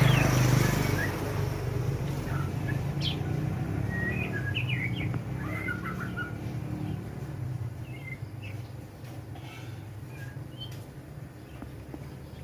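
Young white-rumped shama (murai batu) practising its song: short, scattered chirps and twittering notes, not yet a full song, over a low steady hum that is loudest in the first second or so.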